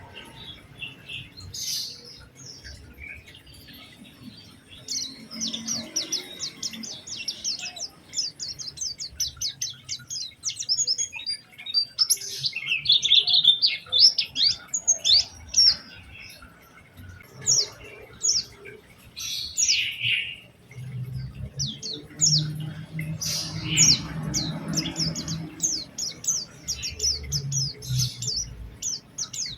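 White-eye (pleci) singing a fast, chattering song of rapid high chirps and trills in long bursts with short pauses. A low rumble runs underneath in the second half.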